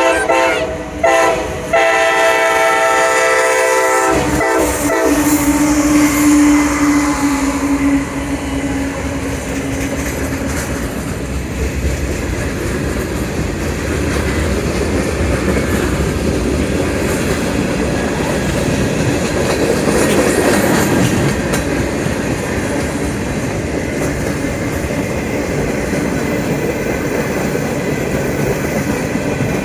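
CSX freight locomotive horn sounding a short blast and then a longer one that ends about four seconds in. Then the freight train rolls past with a steady rumble and clickety-clack of wheels over rail joints.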